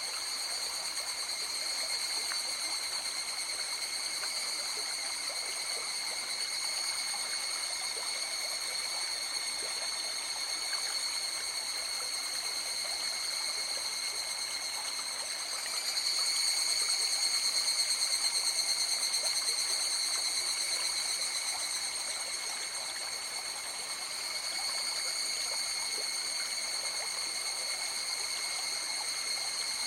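A river flowing steadily, a continuous rush of water, with a steady high-pitched ringing held over it; the water swells a little louder for a few seconds about halfway through.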